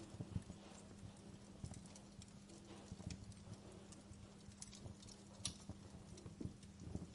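Wood campfire crackling: faint, irregular snaps and pops, one sharper pop about five and a half seconds in, over a low steady hum.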